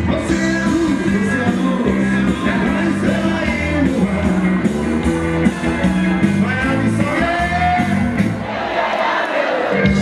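Band music with a singing voice over guitar and a steady bass line. Near the end the bass drops out under a brief noisy swell.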